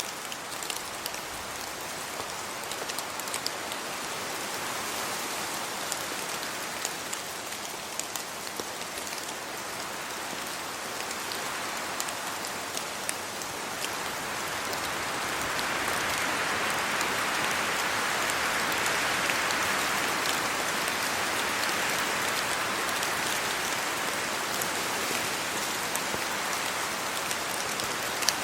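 Steady rain falling on leaves and the ground, with scattered individual drops ticking close by. It grows louder about halfway through and stays louder.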